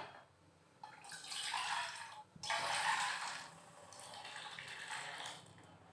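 Water running from a kitchen tap in three short spells, stopping shortly before the end.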